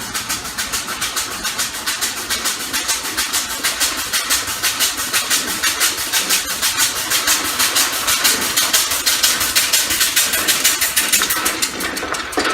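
Compressed-air engine running, its exhaust air hissing out in rapid, evenly spaced puffs that grow louder, with a brief dip near the end.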